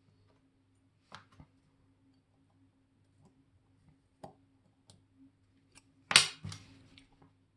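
Small metal clicks and taps of watchmaker's tools and tiny parts on a Molnija 3601 movement, spaced out. About six seconds in there is a louder sharp clatter, two hits close together, over a faint steady hum.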